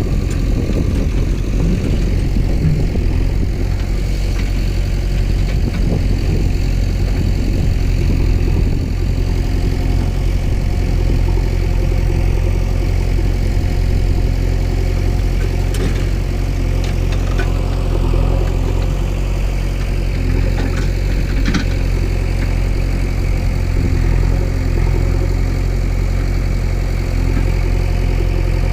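Engine idling steadily with a deep hum, with a few faint clicks about two-thirds of the way through.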